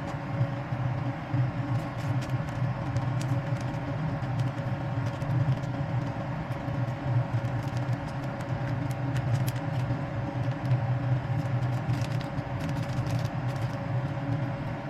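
Steady low rumble with a constant hum and light, scattered clicks.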